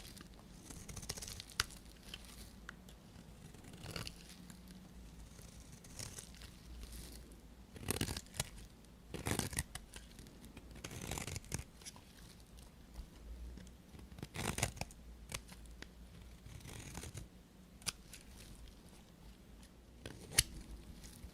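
A knife cutting through bar soap: a run of irregular crunchy, scraping strokes, the loudest few bunched in the middle.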